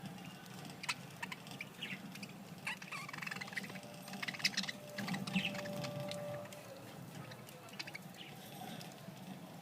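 Budgerigars chirping and chattering in short, scattered calls, with a few sharp clicks among them. The calls are busiest about halfway through.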